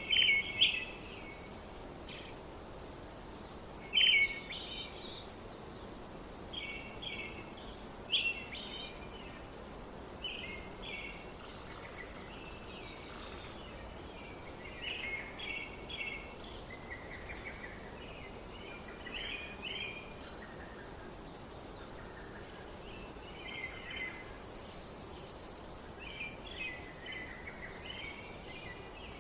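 Small birds chirping, short bursts of song every second or two over a steady hiss of outdoor background noise, with a brief buzzy call near the end.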